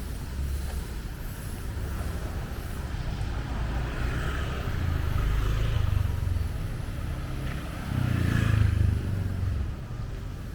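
Street traffic: motor vehicles passing over a steady low rumble, with one louder pass about halfway through and another, the loudest, near the end.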